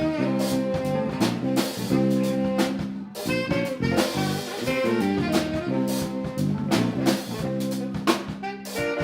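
Live band playing an upbeat funk instrumental, with a busy drum kit under sustained horn lines and bass.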